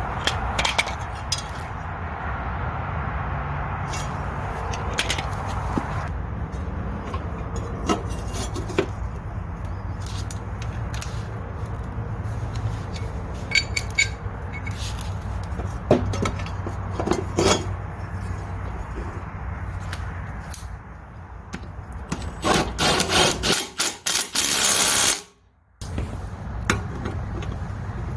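Hand-tool repair work: scattered clinks and scraping over a steady low hum, with a louder stretch of rapid noise near the end that breaks off into a moment of silence.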